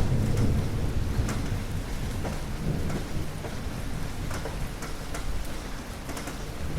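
Steady rain with scattered sharp drips, under a low rumble of thunder that is loudest at the start and dies away over the next few seconds.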